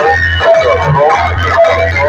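Loud music played through a DJ sound-box system: a melody of short held notes over heavy, pulsing bass.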